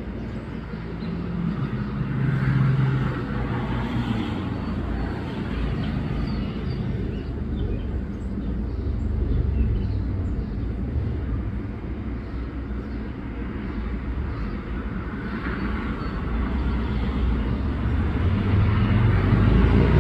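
Steady outdoor background rumble of road traffic, swelling and easing a few times as vehicles pass.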